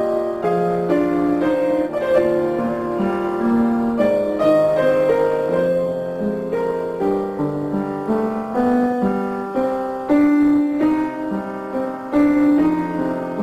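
Piano music, a slow melody of single notes over held chords.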